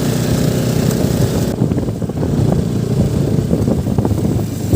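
Motorcycle engine running steadily while riding. A high hiss, like wind on the microphone, drops away about one and a half seconds in.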